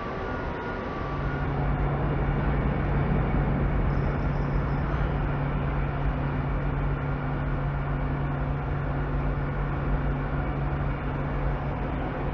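Heavy machinery or a large engine running, a steady low hum over a rushing noise; the hum comes in about a second in and holds steady.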